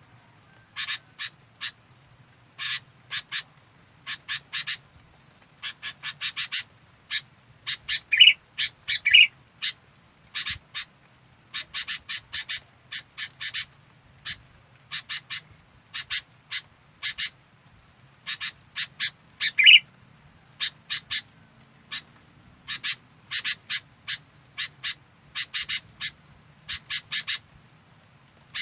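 Sooty-headed bulbul (kutilang) calling: irregular runs of short, sharp chips in quick clusters, with a few louder, fuller notes among them.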